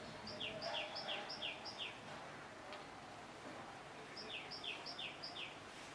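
A bird calling: two runs of four or five quick, identical down-slurred chirps, one just after the start and another about four seconds in, over faint steady background noise.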